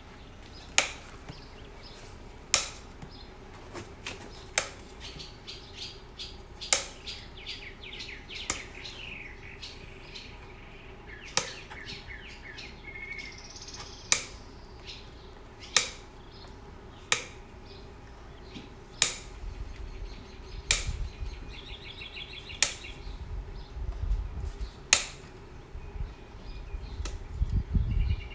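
Hammer striking a horseshoe on an anvil while forging a toe clip: single sharp blows about every two seconds, each with a brief ring. Birds chirp in the background.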